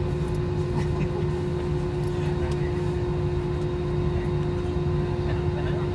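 Steady cabin noise inside a Boeing 777-300ER on the ground before takeoff: a constant low hum with a steady mid-pitched tone running through it, and a few faint clicks.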